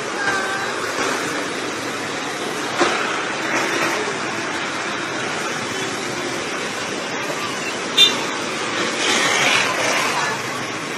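Steady noise of running machinery, with a sharp knock about eight seconds in and a louder stretch shortly after.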